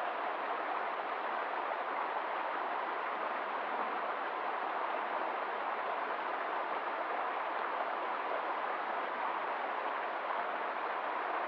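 Steady, even rush of water, with no separate drips or splashes standing out.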